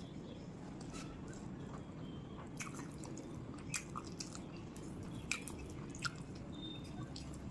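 Close-miked chewing of a rice and curry meal: wet mouth clicks and smacks scattered over a steady low background hum, coming more often from about a third of the way in.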